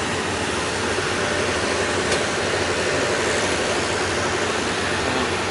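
Passenger train carriages pulling out of a station platform: a steady rumble of wheels on the rails, with one sharp click about two seconds in.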